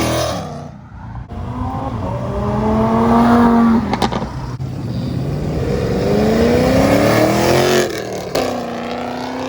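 A car accelerating hard, its engine revving up through the gears: two long climbs in pitch broken by a shift about four seconds in, another shift near the end, then a steadier, lower note.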